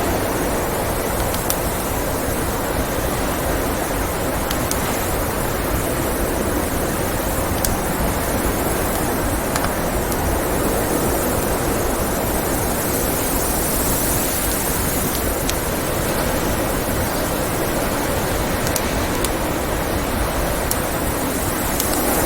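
Steady blizzard wind noise, with scattered sharp crackles and pops from a wood fire.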